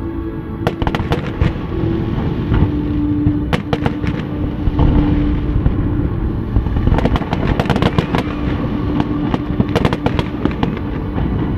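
Aerial fireworks going off in rapid, irregular succession: sharp bangs and crackling over a continuous low rumble, with dense clusters of bursts about a third of the way in and again in the second half.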